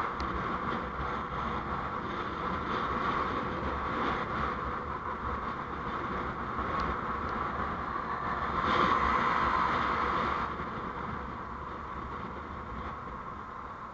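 Steady road and traffic noise from a vehicle on the move, swelling louder about nine seconds in and then fading off toward the end.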